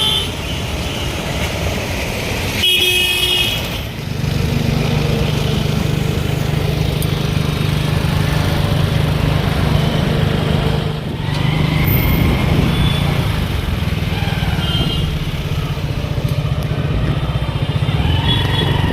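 Motorcycle running steadily while riding through road traffic, with other vehicles' horns honking briefly a few times: once about three seconds in, again later, and near the end.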